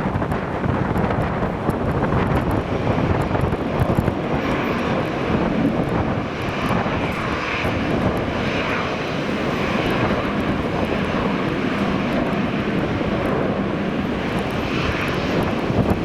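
Airliner engines running loud as a plane passes close by, heard through heavy wind buffeting the microphone.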